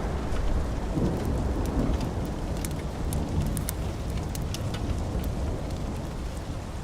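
Steady rain with a low rumble of thunder dying away over the first few seconds, and scattered sharp ticks throughout.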